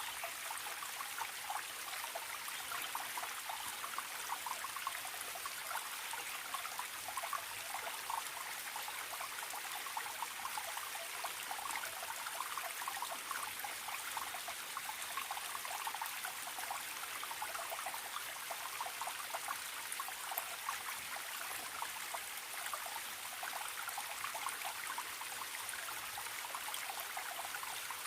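Stream water trickling and gurgling steadily, a constant run of small splashes with no pauses.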